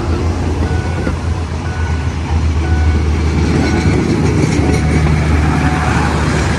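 Diesel train engine running loud and steady, with a low rumble as the train moves. A few short high beeps sound in the first two seconds.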